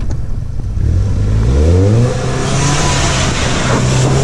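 Volkswagen GTI's turbocharged four-cylinder engine revving in a handbrake-on burnout in snow. About a second in the revs climb quickly, then hold high while the spinning front tyres hiss and throw snow.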